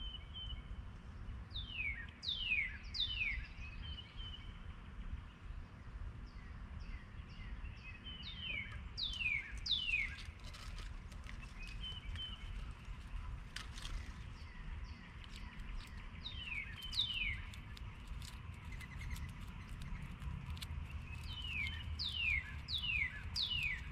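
A songbird singing phrases of three or four clear, steeply falling whistled notes, four phrases spaced about six or seven seconds apart, over a steady low background rumble.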